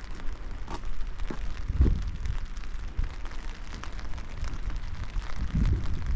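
Steady rain falling, with many individual drops ticking sharply. Low rumbling thuds rise about two seconds in and again near the end.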